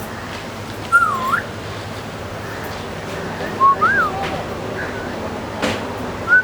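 A parrot whistling three short notes that slide up and down, with a sharp click shortly before the last one.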